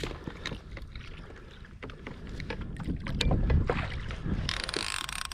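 Water sloshing against a plastic kayak and scattered knocks of handling. Near the end comes a dense buzzing hiss, which ties in with the fishing reel's drag paying out line as a hooked ono makes a run.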